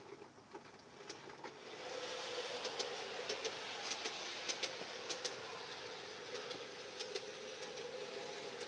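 G-scale model train running on garden track: a steady motor hum and running noise that grows louder about two seconds in, with scattered clicks from the wheels on the rails.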